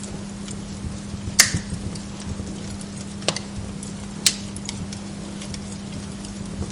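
Wood log fire crackling in a fireplace, with small scattered crackles and three sharp pops in the first part, and a steady low hum underneath.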